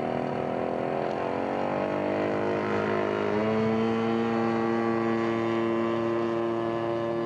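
Radio-controlled model airplane engine running up, its pitch rising for about three seconds and then holding steady at high throttle.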